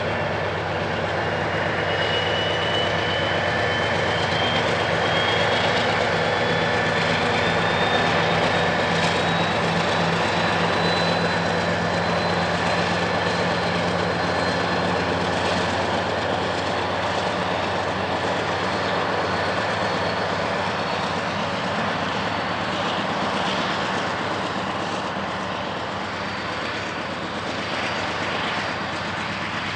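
A train rolling past with a steady, loud rumble of wheels on rail, with a thin whine that rises in pitch through the first half.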